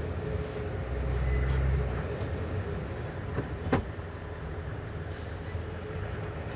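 Steady rumbling vehicle noise, with a single sharp click a little past halfway.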